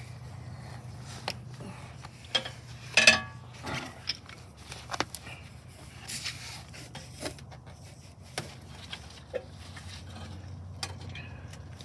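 Scattered metal clinks, knocks and scrapes as a car's oil pan is worked down and out from under the engine, the loudest knocks about three seconds in, over a steady low hum.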